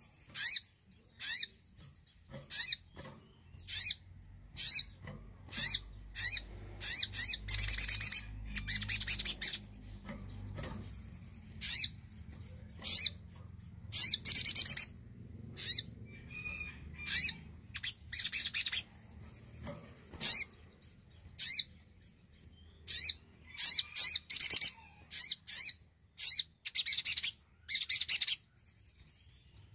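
Little spiderhunter (sogon) calling persistently: short, high, sharp chirps repeated about once a second, some running together into longer rapid trills.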